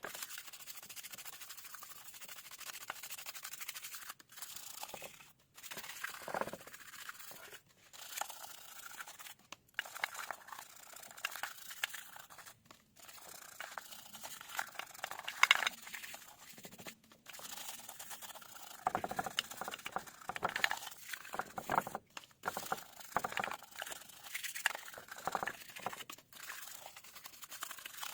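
Irregular scraping and crinkling handling noises, broken by several abrupt breaks.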